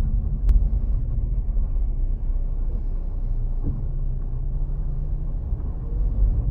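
Steady low rumble of a moving car heard from inside the cabin: engine and tyre noise on the road, with a single faint click about half a second in.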